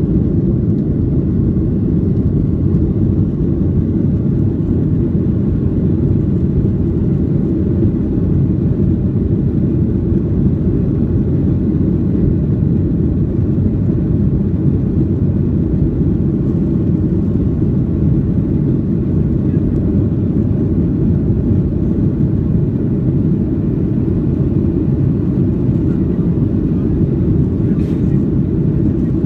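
Boeing 737-800's jet engines and airflow heard from inside the passenger cabin, as a loud, steady low rumble.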